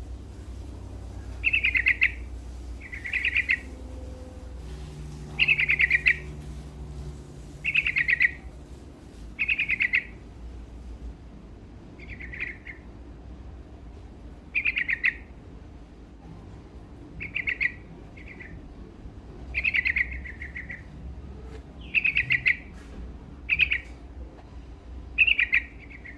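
Yellow-vented bulbul (trucukan) singing: short, loud song phrases about a second long, repeated every one to three seconds.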